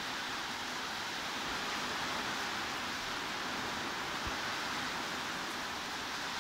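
Steady heavy rain, an even hiss of noise with no distinct drops or changes.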